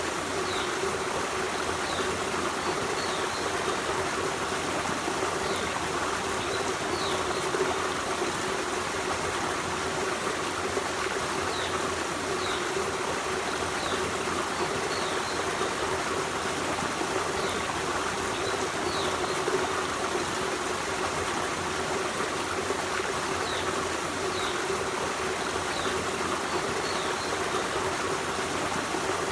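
Forest stream running steadily over rocks, a continuous rush and trickle of flowing water.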